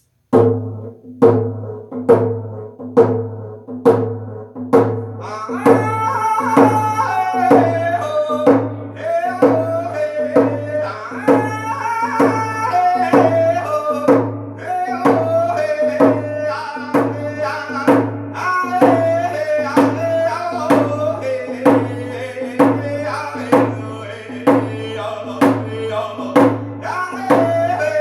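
A drum struck in a steady beat. About five seconds in, a man starts singing a song in Ojibwe over it.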